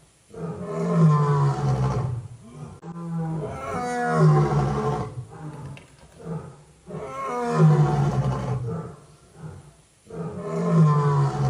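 Tiger roaring again and again: about four long, deep roars with short pauses between them.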